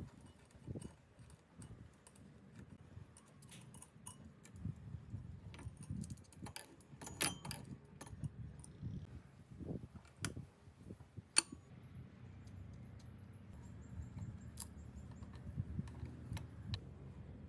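Scattered metallic clicks, taps and clinks of hand tools and small engine parts being handled, with a sharper knock about 11 seconds in, over a faint low hum.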